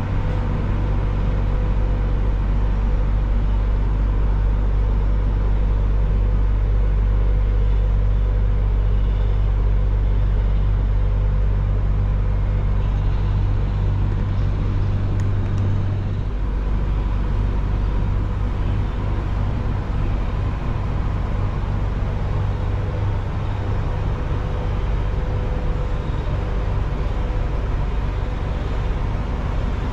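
Steady low rumble of a running vehicle or engine with a constant hum; the low drone shifts about halfway through.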